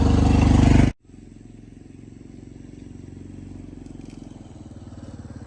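A small engine running loudly, cut off suddenly about a second in, then a quieter engine running steadily with an even beat.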